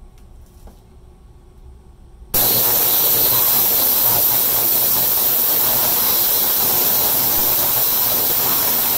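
Ultrasonic cleaner running in a tank of hot degreaser, switched on suddenly about two seconds in: a loud, steady hissing buzz of cavitation.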